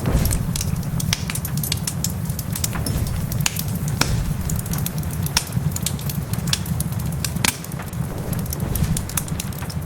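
Wood fire in a fireplace crackling, with frequent sharp pops and snaps over a steady low rumble, and rain hissing behind it.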